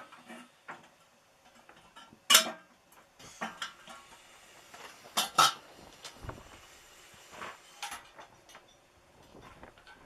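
Irregular sharp clicks and knocks of hard objects being handled. The loudest comes a little over two seconds in, and a close pair follows about five seconds in.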